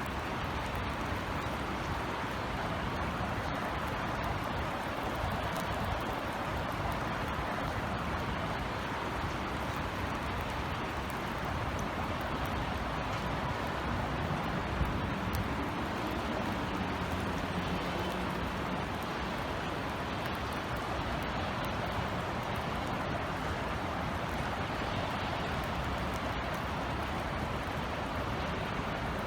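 Steady light rain, an even hiss of drizzle, with a low city rumble underneath. A faint low hum swells and fades around the middle.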